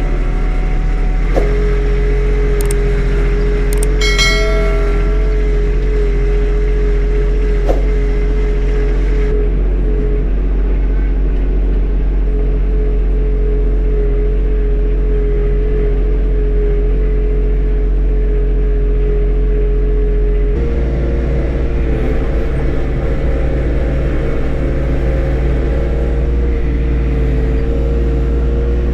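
John Deere 1025R compact tractor's three-cylinder diesel engine running steadily under way, with a steady whine over the engine note. A few sharp clicks or clunks come in the first several seconds, and about twenty seconds in the engine note steps up slightly.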